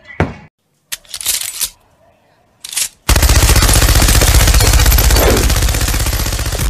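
A few short noisy bursts, then from about three seconds in a long, loud run of rapid, evenly spaced shots, like an automatic-gunfire sound effect.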